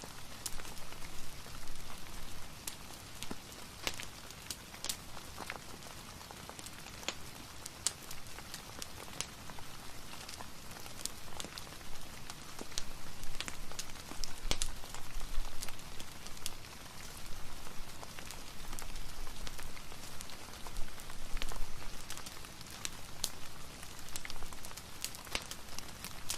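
Steady rain mixed with a crackling fireplace: an even hiss of rainfall with frequent sharp, irregular pops and ticks over it.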